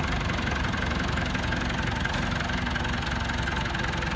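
A vehicle engine idling steadily, with a low rumble and no change in speed.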